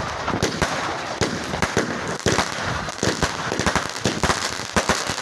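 Fireworks display going off: a rapid, irregular string of bangs and crackles, many per second, over a steady rushing noise.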